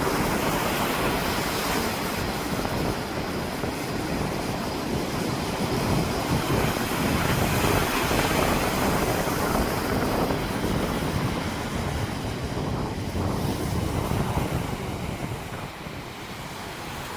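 Heavy surf breaking on a beach, with strong wind rumbling on the microphone; the noise swells and eases.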